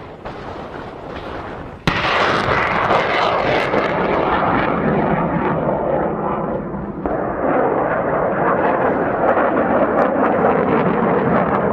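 Missile launch: a loud, steady rushing roar from the rocket motor that starts abruptly about two seconds in, after a quieter rush. Its high hiss thins out over the following seconds while the roar carries on.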